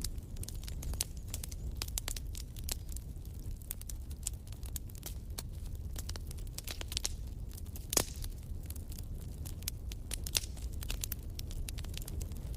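Fire crackling in a fireplace: many small, irregular snaps over a low steady rumble, with one louder pop about eight seconds in.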